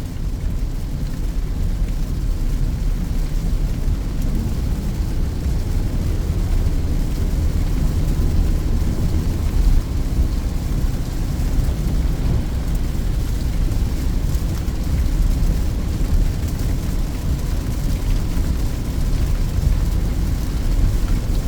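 Steady low drone of a Peugeot 2008's engine and tyres on the road, heard from inside the cabin while cruising.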